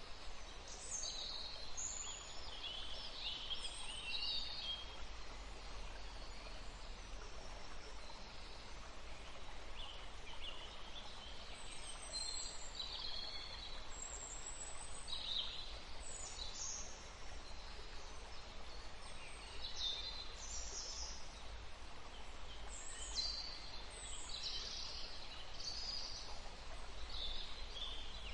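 Forest stream running with a steady rush, under songbirds singing short, high phrases. The birds come in clusters, with a lull of several seconds after the first burst of song.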